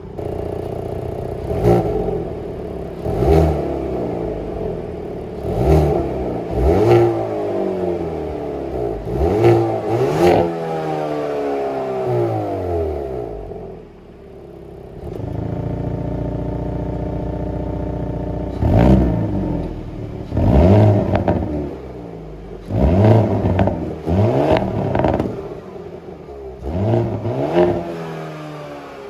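Hyundai Kona N's turbocharged 2.0-litre four-cylinder revved in repeated short blips while standing still, each one rising and falling back, with sharp crackles and pops as the revs drop. About halfway through, the sound breaks off. It comes back as a steady idle, then a run of quicker, sharper blips, this time with the active exhaust valve open.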